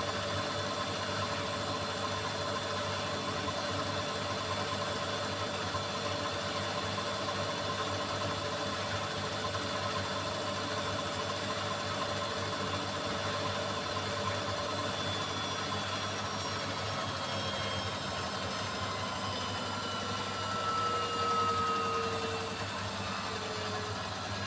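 Beko washing machine spinning, its motor giving a steady whine over a low hum; in the last third the whine slowly falls in pitch as the drum slows down.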